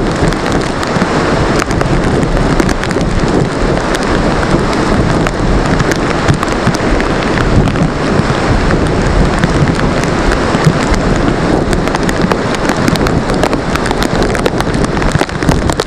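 Hurricane rain and wind beating against a glass pane: a loud, steady rush with a constant patter of sharp drop impacts.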